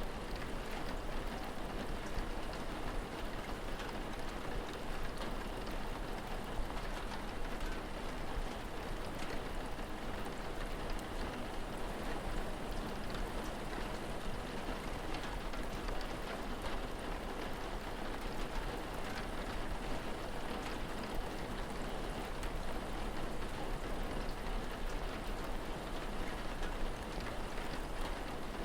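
Steady rain falling, an even hiss with many small drop ticks on surfaces.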